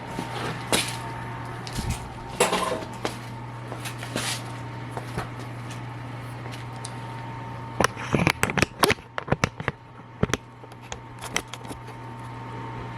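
Scattered clicks and knocks of a camera and tripod being picked up and moved, with a quick cluster of them about eight seconds in, over a steady low hum.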